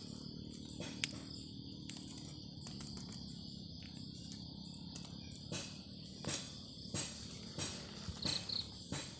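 Steady high insect chorus of crickets. From about halfway, regular rustling steps on the forest floor join in, roughly one every two-thirds of a second.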